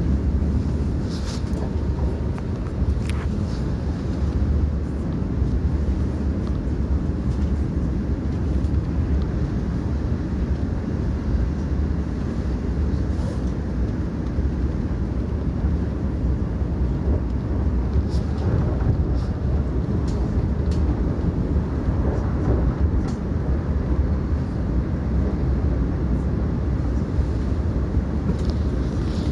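Steady low rumble of a passenger train running at speed, heard from inside the carriage, with a few faint short clicks here and there.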